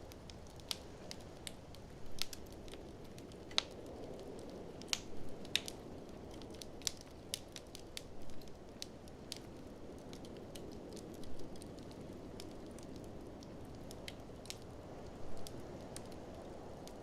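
Fireplace fire crackling, with sharp pops at irregular intervals, over a steady low rush of blizzard wind.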